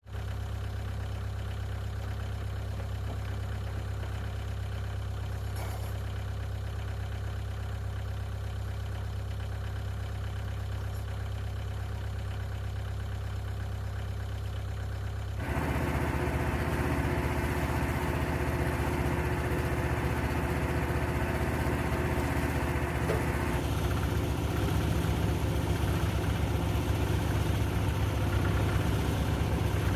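An engine running steadily at idle. About halfway through, the sound steps up suddenly louder and fuller, and it changes again some eight seconds later.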